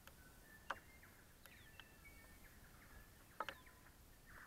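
Near silence, with faint distant bird chirps and whistles and a few soft clicks, the loudest about two thirds of a second in and again about three and a half seconds in.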